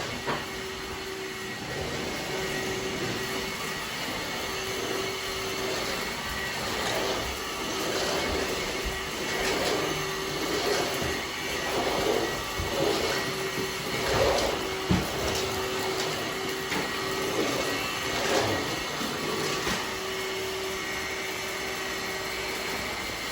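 Vacuum cleaner running with a steady hum and rush of air, with uneven swells and a few sharp knocks through the middle.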